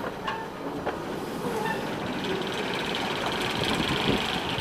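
Narrow-gauge passenger coaches rolling slowly past on the rails as the train pulls away, with a few sharp wheel clicks in the first second. A steady higher-pitched noise joins about halfway through.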